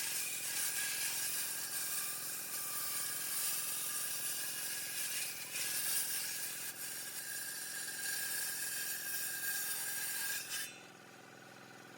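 Power tool working palm wood: a steady noise with a faint high whine that stops suddenly about eleven seconds in.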